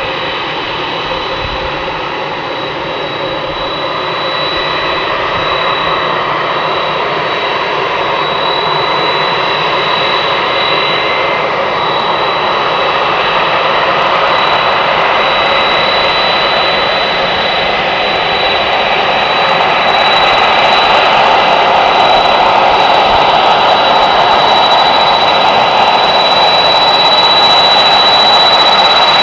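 Boeing 767 jet engines running, a dense roar with a steady high whine on top that grows louder, stepping up again about two-thirds of the way through.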